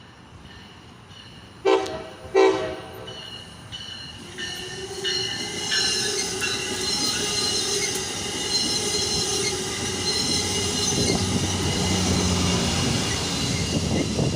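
A train sounds two short horn blasts about two seconds in, then draws near and passes, its rumble building, with steady high wheel squeal from the rails.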